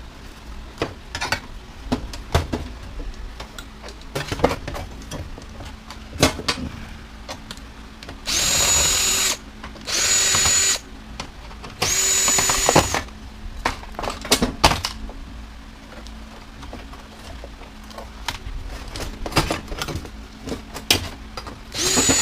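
Power drill running in three short bursts of about a second each, a steady whine that spins up at each start, with another burst beginning near the end. Scattered sharp clicks and knocks of metal parts being handled fall in between.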